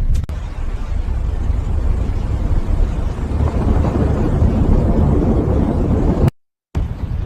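Steady, loud low vehicle rumble with no clear engine pitch. It cuts out abruptly for a moment about six seconds in, then resumes.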